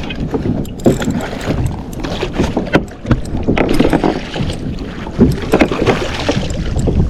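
Water splashing and sloshing around a kayak, with irregular knocks on the hull and wind buffeting the microphone.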